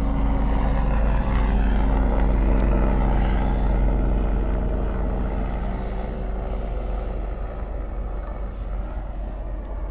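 Engine drone of a passing vehicle, with a steady low hum that slowly fades away over the second half.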